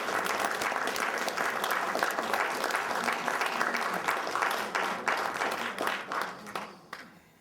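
Audience applauding, dense and steady, fading out about six to seven seconds in.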